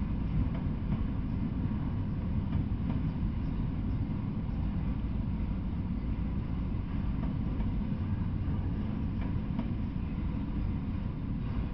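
Freight train of enclosed autorack cars rolling past: a steady low rumble of wheels on rail, with a few faint ticks.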